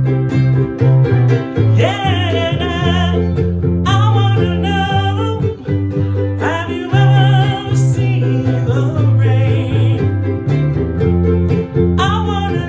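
Soprano ukulele (a 1920s Martin Style 3) strummed over a low bass line, with a singing voice coming in every couple of seconds.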